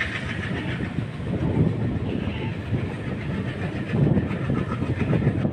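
Diesel-hauled passenger train running, heard from an open coach door: a continuous rumble and clatter of wheels on the track, mixed with rushing air.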